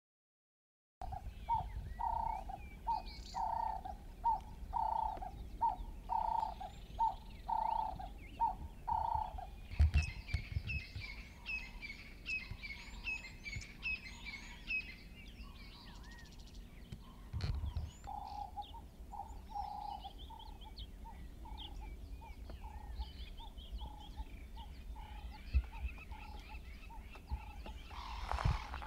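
Wild birds calling. A low call is repeated about twice a second for the first eight seconds and again briefly near twenty seconds, with a run of higher chirps and whistles in between. A steady low rumble lies under it, and there are sharp knocks about ten seconds in and again near eighteen seconds.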